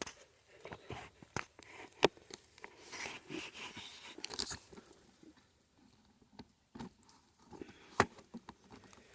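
Scattered sharp clicks and knocks with rustling, busiest about three to four and a half seconds in: handling noise of gear close to the microphone.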